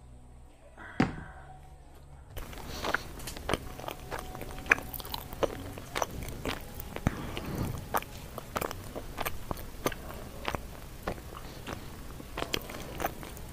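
Chewing and crunching a mouthful of sweet potato leaves dipped in dayok sauce: one sharp click about a second in, then steady chewing with many short crunches from about two seconds in.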